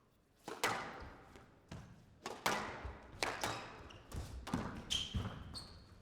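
Squash rally: a series of sharp ball strikes off rackets and court walls, irregularly spaced about half a second to a second apart, with short shoe squeaks on the court floor near the end.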